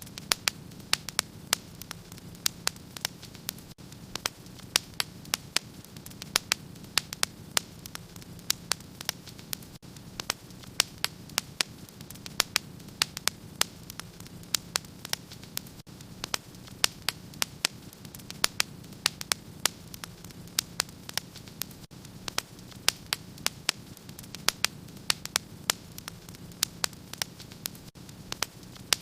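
Wood fire burning in a fireplace, crackling with many sharp irregular pops, several a second, over a steady low hiss.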